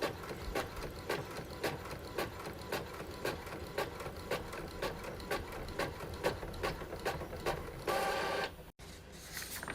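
Desktop printer printing a page: a regular mechanical clicking of the print mechanism, about two strokes a second, then a short louder whir near the end.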